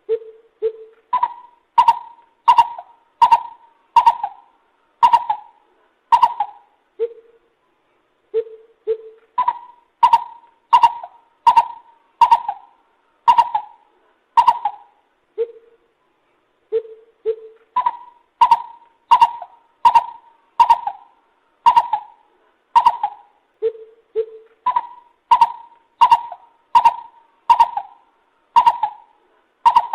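Lesser coucal calling in repeated phrases: each phrase opens with two or three low hollow notes, then a run of about eight higher, evenly spaced notes. Every note starts with a sharp click, and a new phrase begins about every seven to eight seconds.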